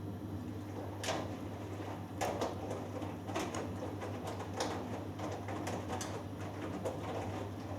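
Hoover Dynamic Next front-loading washing machine in the wash phase of a cotton cycle: a steady low hum under the drum tumbling the wet load, with water splashing and laundry flopping at irregular moments about once a second.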